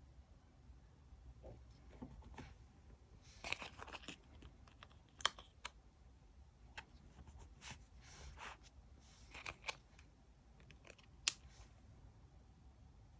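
Quiet desk-work sounds of diary decorating: scattered light taps and sharp clicks of stationery handled, with a few short paper rustles.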